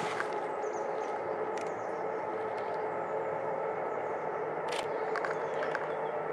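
Steady outdoor background noise with a faint hum, broken by two brief sharp clicks about one and a half and five seconds in.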